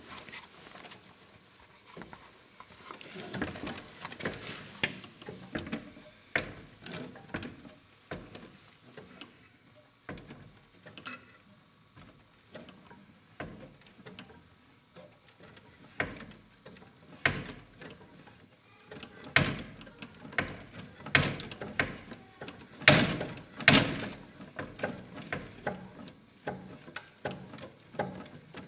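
Irregular mechanical clicks and knocks from a homemade magnet motor device, growing louder and more frequent past the middle.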